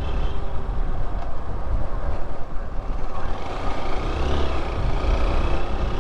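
Motorcycle riding along a road, its engine running under steady wind noise on the rider's microphone. A faint pitched engine note rises about halfway through.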